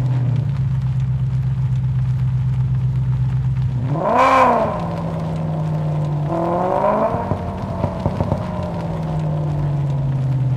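Muscle car engine idling, blipped twice. About four seconds in there is a quick rev up and straight back down, then a second, longer rev a couple of seconds later, followed by a few sharp cracks before it settles back to idle.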